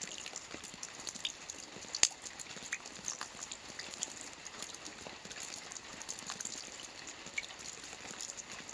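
Soft rain falling on a roof: a steady hiss with many separate drops tapping at random, one louder drop about two seconds in.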